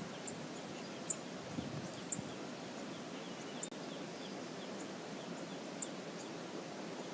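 Steady rush of river water, with five short, very high bird chirps spread irregularly across it. The audio drops out for an instant a little past the middle.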